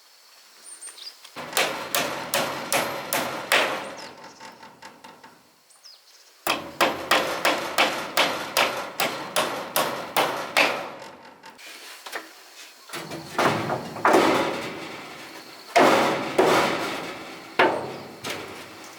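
Hammer blows on wood: two runs of quick, even strikes at about three a second, then a few heavier single blows spaced a second or two apart.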